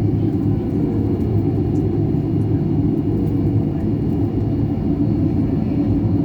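Boeing 737 taxiing, a steady low rumble from its jet engines at low taxi power, with a faint steady high tone over it.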